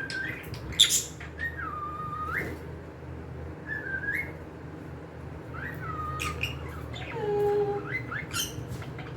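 Pet cockatiels whistling and chirping: several whistled notes that dip and then rise again, mixed with short sharp chirps, and a lower held whistle about seven seconds in.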